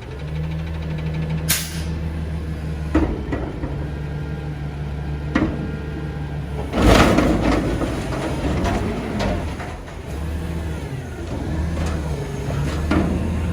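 Peterbilt garbage truck with a Heil body, its diesel engine running steadily, with a few sharp clanks and a loud noisy burst about seven seconds in.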